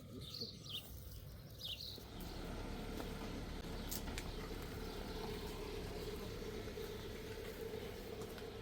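A few short bird chirps, then about two seconds in a steady rumbling noise with a low hum sets in and carries on.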